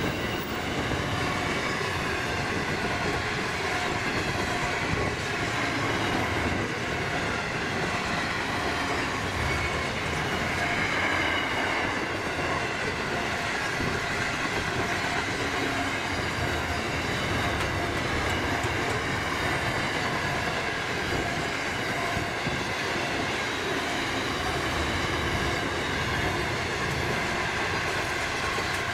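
Container flat wagons of a long intermodal freight train rolling steadily past: continuous wheel-on-rail rumble with a faint steady high-pitched whine from the wheels above it.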